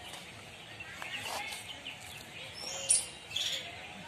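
Birds chirping and calling: short high chirps, with one sharp, loud call about three seconds in.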